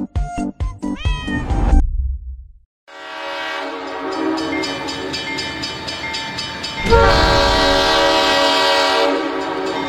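A music melody ends with a rising pitch glide and a low rumble, then after a short break a train horn sounds as a steady chord over a regular clatter of wheels on rail. About seven seconds in it gets suddenly louder as the train passes close.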